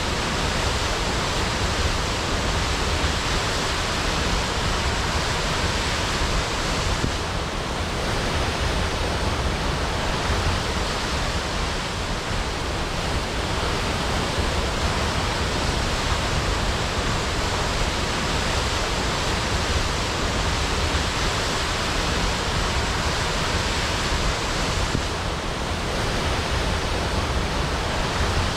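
Waterfall crashing: a steady rush of falling water with a deep low rumble.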